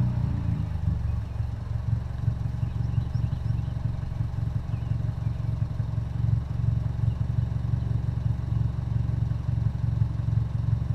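Chevrolet Sonic 1.4L turbo four-cylinder engine, breathing through a catless downpipe and resonator-only exhaust, running steadily at low, even revs with a deep rumble.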